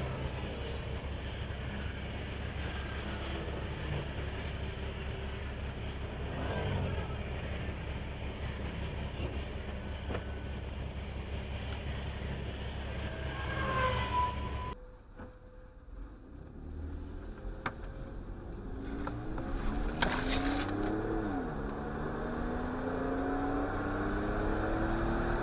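Steady road and engine noise from a moving car. After a sudden cut, an engine accelerates with a rising pitch that peaks and dips briefly before climbing again.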